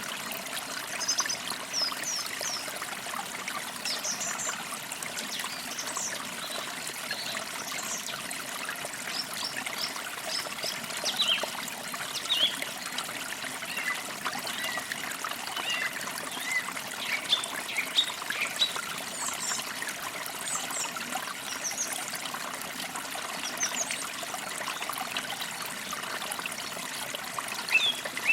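Forest creek trickling and babbling over stones, with small birds chirping in short, scattered calls throughout.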